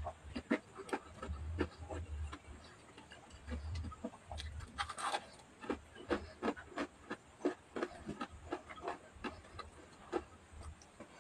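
Close-up mukbang eating: a person chewing soft food with wet lip smacks and mouth clicks, irregular and several a second, with a few low thumps in the first half.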